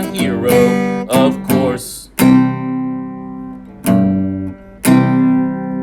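Song ending: a sung line over strummed acoustic guitar, then three strummed chords about two, four and five seconds in, each left to ring and fade.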